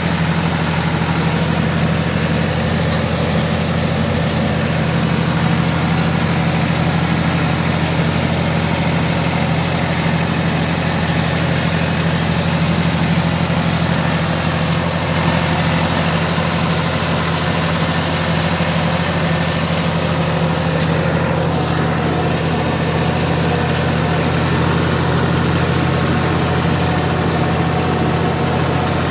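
Sonalika tractor's diesel engine idling steadily at a constant speed.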